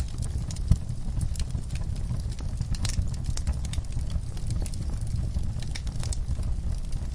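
Wood fire crackling in a fireplace: scattered sharp pops and snaps over a steady low rumble, one louder pop under a second in.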